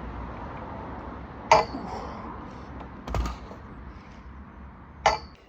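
Two sharp clinks, about three and a half seconds apart, with a duller knock between them, over a steady low rumble.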